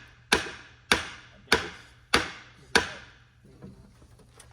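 Five evenly paced hammer blows on a seized part of an old Ford-o-Matic automatic transmission, each ringing briefly, about one every 0.6 seconds, then stopping about three seconds in; the part is stuck fast with rust.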